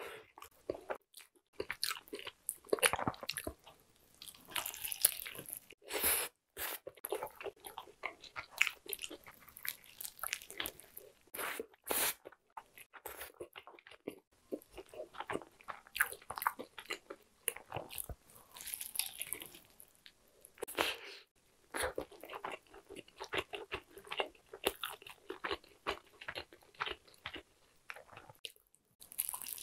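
Close-miked eating of a crispy breaded fried-chicken burger: repeated crunching bites and chewing, at an irregular pace with short pauses between.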